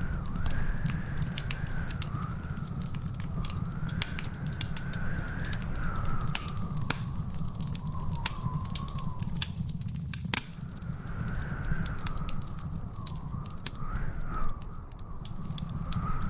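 Wood fire crackling in a fireplace: frequent sharp pops and snaps over a steady low rumble, with a louder pop about three-quarters of the way through. A faint high tone drifts slowly up and down behind it.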